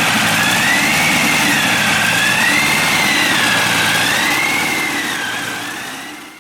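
Ranger V12 air-cooled aircraft engine running steadily, with a high whine that wavers slowly up and down above the engine note; the sound fades out near the end.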